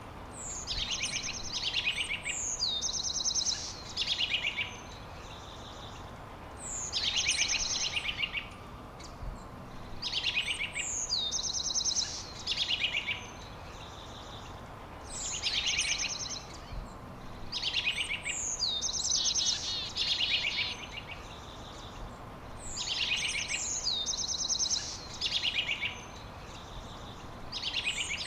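A songbird singing the same high, trilled phrase over and over, a new phrase every three to four seconds, over a faint steady hiss.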